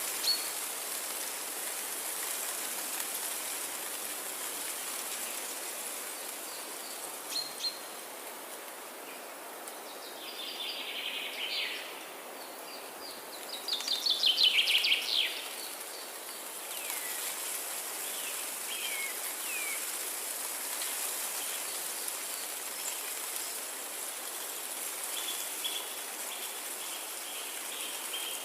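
Forest ambience: a steady background hiss with songbirds calling over it. Scattered short chirps are heard, then a song phrase about ten seconds in, and about halfway through comes the loudest sound, a quick run of falling notes.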